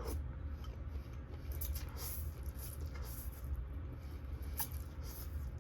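Close-miked chewing of a big mouthful of noodles: irregular wet, squishy mouth clicks and smacks over a steady low hum.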